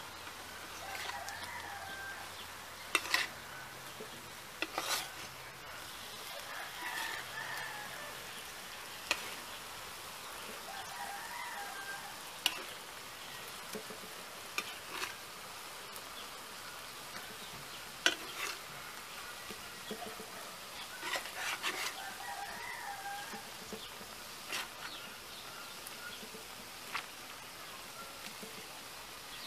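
Chicken pieces and onion sizzling steadily on an electric griddle while they are stirred, with a dozen or so sharp clacks as a metal spatula and spoon scrape and knock against the griddle surface.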